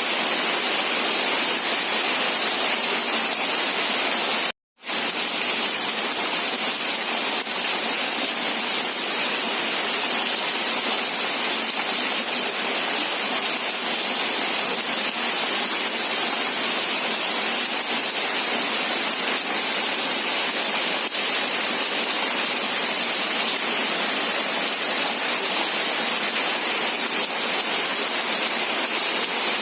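Steady rain falling, an even hiss, which cuts out for a split second about four and a half seconds in.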